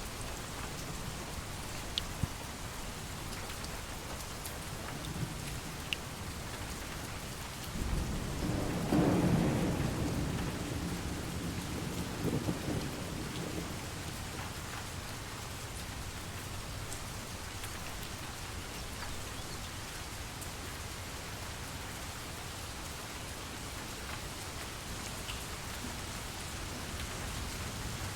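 Steady rain falling, with a few sharp drop ticks, and a roll of thunder about eight seconds in that rumbles for several seconds, swells again briefly, and fades.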